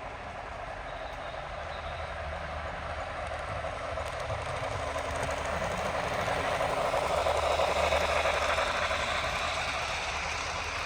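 HO scale model passenger train rolling past on the layout track. The noise of wheels and running gear grows louder to about eight seconds in, then eases a little.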